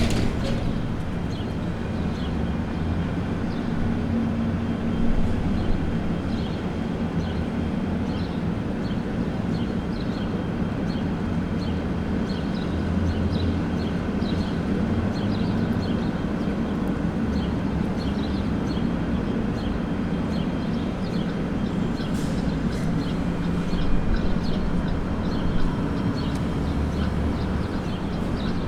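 Steady low rumble of downtown street traffic, with short high chirps scattered throughout and a couple of brief louder knocks.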